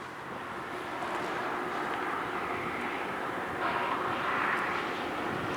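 LORAM rail grinder train running along the track, a steady rushing noise that builds over the first second and swells a little around the middle.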